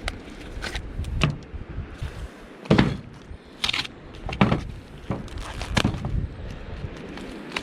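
About half a dozen irregular knocks and clunks, like things being handled or set down hard, spread over several seconds.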